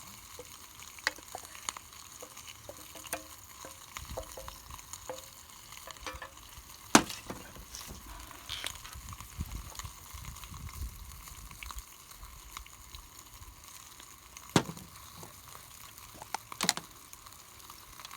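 Chicken and onion sizzling in a pan over a campfire, a steady hiss, with a few sharp knocks or clicks, the loudest about a third of the way in and two more near the end.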